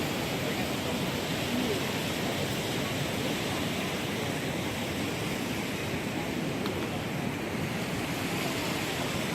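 Steady rushing of running water, an even hiss with no breaks or single events.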